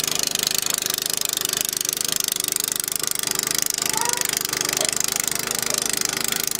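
An engine running steadily with a fast, even pulse, over a steady hiss.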